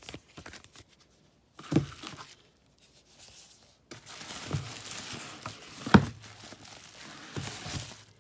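Paper and plastic packaging crinkling and rustling as it is handled, with a sharp knock about two seconds in and a louder one about six seconds in.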